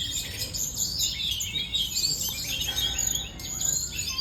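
Tledekan gunung songbird singing in fighting mode: a dense, continuous run of quick high chirps and trills with no pauses.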